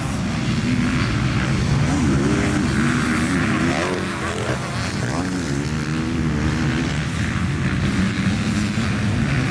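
Motocross bike engine revving, its pitch rising and falling repeatedly with the throttle and gear changes.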